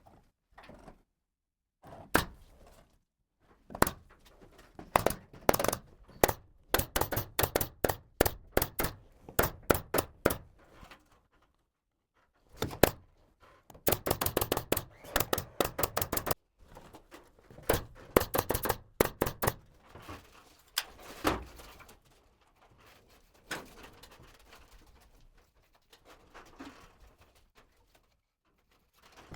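Pneumatic nail gun firing into wood in quick runs of sharp shots, several a second, with pauses between runs and a few scattered knocks near the end, as plywood ceiling framing is nailed up.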